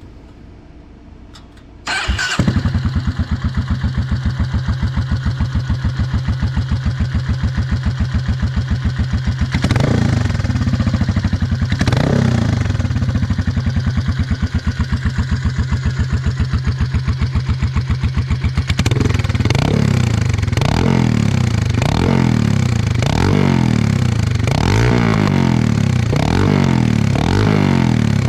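Yamaha XVS 650's air-cooled V-twin engine starting about two seconds in and settling into a steady, loping idle. It is revved briefly twice, then given a series of quick throttle blips, roughly one a second, through the last third.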